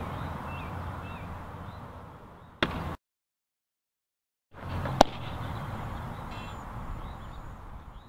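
Outdoor ambience with faint birds chirping, cut by a short gap of silence. The loudest sound is a sharp pop about five seconds in, a softball pitch smacking into a catcher's mitt, with a lesser knock about two and a half seconds in.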